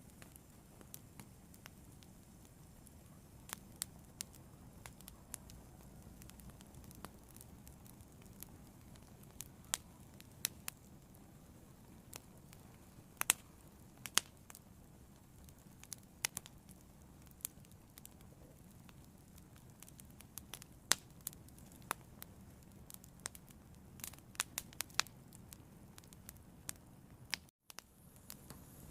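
Fire burning, with irregular sharp crackles and pops over a low steady rumble; the sound cuts out for an instant near the end.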